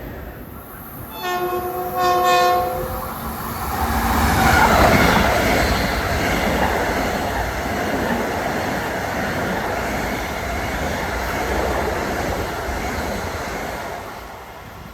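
Long Island Rail Road commuter train sounding two horn blasts, the second longer, about a second in. It then passes at speed with a steady rush of wheel and rail noise that peaks a few seconds later and dies away near the end.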